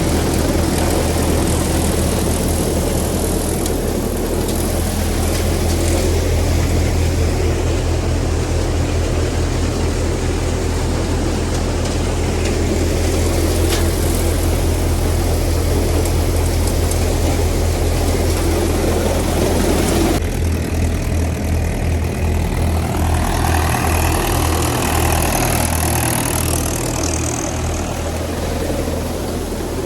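Mahindra tractor's diesel engine running steadily with a deep low note. About twenty seconds in, the sound changes to a pulsing, uneven beat.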